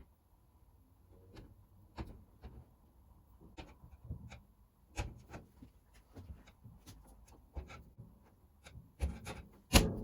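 Hand work noises: irregular light taps, clicks and rubbing of parts being handled and pressed into place, with a few louder knocks near the end.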